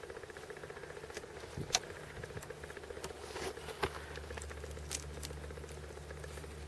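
Honey bee swarm buzzing steadily, with a few sharp clicks and knocks from the wooden swarm-trap box and frames being handled.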